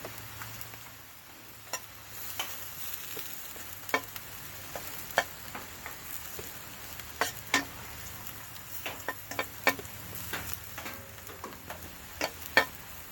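Food sizzling and frying in a pan over a campfire, a steady hiss broken by irregular sharp pops and crackles.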